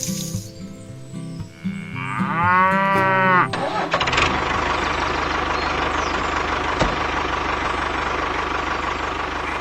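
A cow moos once, a long call about two seconds in, over background music. From about four seconds a small motor runs steadily with a low hum.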